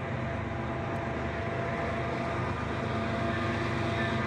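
Low, steady rumble of an approaching diesel freight locomotive, growing slowly louder.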